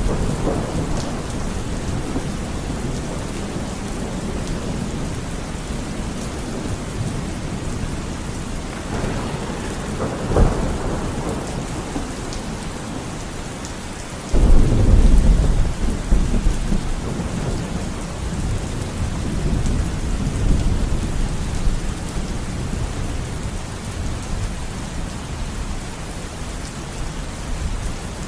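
Steady heavy rain with thunder: a sharp crack about ten seconds in, then a sudden loud peal about fourteen seconds in that rolls on as a low rumble for several seconds.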